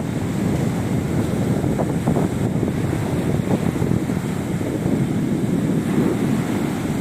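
Sea surf washing onto a beach, mixed with steady wind buffeting the microphone as a low rumble.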